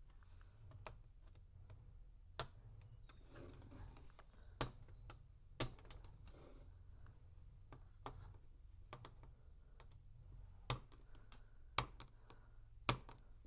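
Plastic LEGO bricks being handled and pressed together: a string of sharp single clicks, about one every second or two, over a low room hum.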